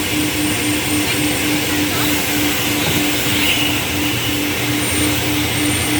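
Coin-operated car wash vacuum running steadily: a loud rush of air with a steady motor hum and a thin high whine.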